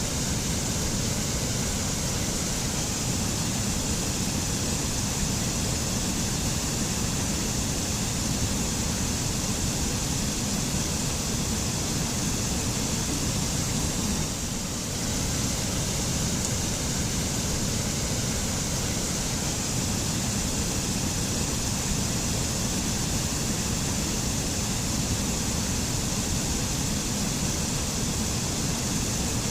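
Mountain waterfall: a steady rush of falling water, with a brief slight dip about halfway through.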